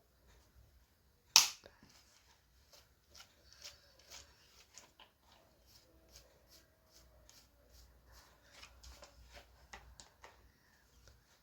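Handling of vacuum cleaner parts: one sharp click about a second in, then a string of light clicks and taps.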